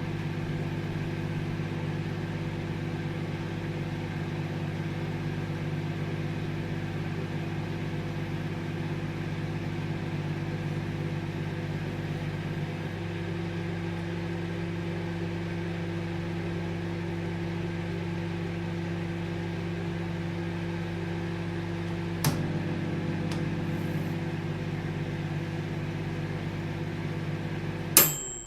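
Microwave oven running with a steady hum, its pitch pattern shifting partway through, a click a few seconds before the end, then a louder click near the end as the hum cuts off.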